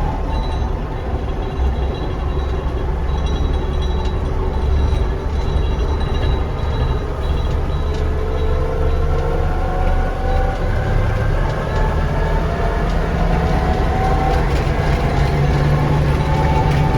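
Bobcat CT5555 compact tractor running under a steady low engine drone, with a whine that climbs in pitch through the second half. This is its faulty hydrostatic transmission, which has got worse since a new hydraulic pump was fitted.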